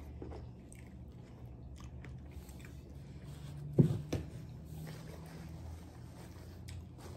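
Close-up wet chewing and biting of a cheese-covered burger, with small mouth clicks over a faint steady low hum. A short voiced sound from the mouth about four seconds in is the loudest moment.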